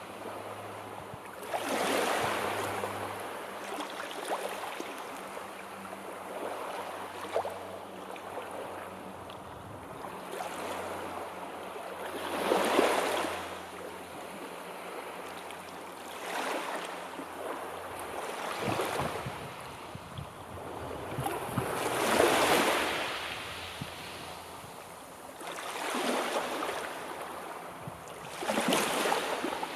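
Sea waves washing in and breaking. Each surge of surf swells and fades over about a second or two, every few seconds, over a steady wash of water.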